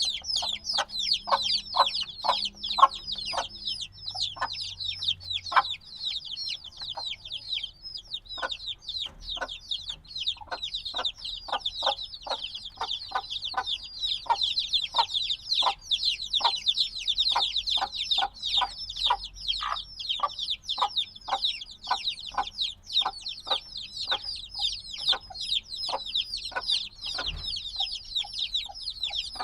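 A brood of chicks a few days old peeping continuously: many high, short chirps, each falling in pitch, overlapping into a dense chorus. Beneath it a lower short sound repeats about twice a second.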